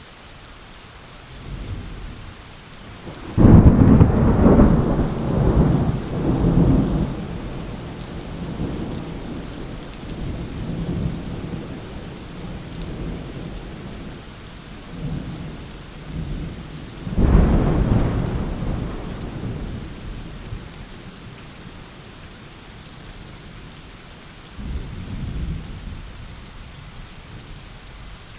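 Thunderstorm: steady rain with rolling thunder. A loud peal breaks out suddenly a few seconds in and rumbles on in several waves, a second loud peal comes past the middle, and a softer rumble follows near the end.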